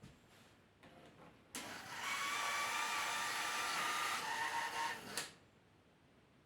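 Sound-effect steam noise from the digital sound decoder of a Märklin H0 BR 01 model steam locomotive: a hiss carrying whistling tones that starts suddenly, shifts a little lower near the end, and cuts off after about three and a half seconds. A few faint clicks come before it.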